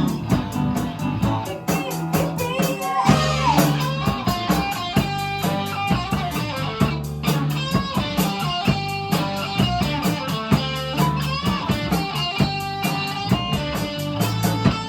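Rock band playing live in an instrumental stretch with no singing: electric guitar lead line with string bends over bass and a steady drum kit beat.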